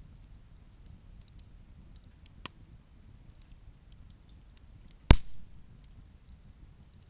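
Wood fire crackling faintly with small scattered ticks, then a sharp pop about two and a half seconds in and a much louder crack of burning wood about five seconds in.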